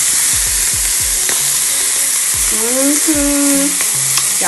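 Prawns sizzling steadily as they char in a hot, lightly oiled pan. A little past halfway comes a short vocal note of about a second, rising and then held.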